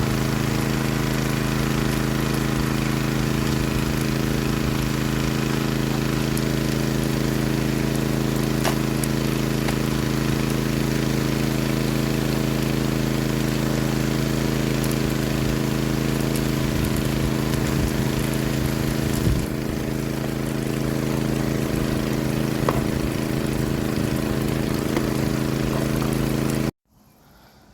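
Small petrol engine of a highbanker's water pump running steadily at constant speed, with water rushing through the sluice; it cuts off abruptly near the end.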